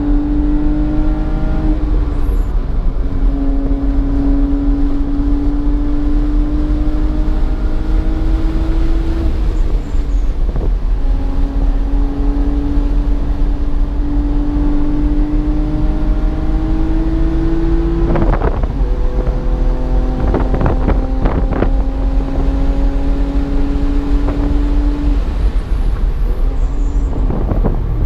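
BMW engine pulling hard through the gears, heard on board: its note climbs steadily for several seconds at a time and drops at each upshift, about four times. A heavy low rumble runs under it, and a quick cluster of knocks comes about two-thirds of the way through.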